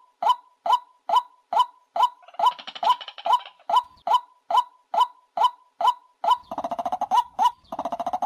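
White-breasted waterhen lure call: a short, loud, pitched note repeated evenly, nearly three times a second. It is overlaid three times by rapid rattling chatter, near the start and twice toward the end.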